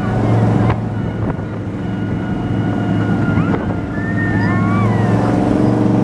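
Monster truck engine running under load, a low steady drone that grows louder over the last couple of seconds.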